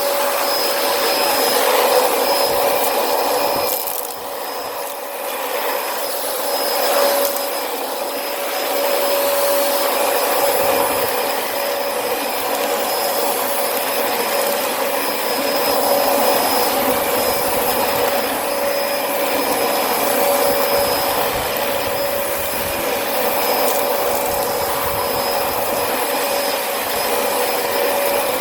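Dyson vacuum cleaner running steadily, a constant motor whine over a rushing air hiss, dipping briefly about four seconds in, as it picks up sand left by the other vacuums.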